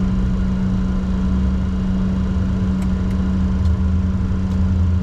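Steady cockpit noise of a Bombardier Challenger 604 business jet: a constant hum over a low rumble, with a few faint ticks.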